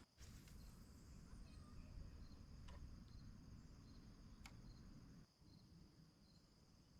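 Crickets trilling faintly: a steady high whirr with a soft pulse about every second, over a low rumble that drops out about five seconds in. There are a couple of faint clicks.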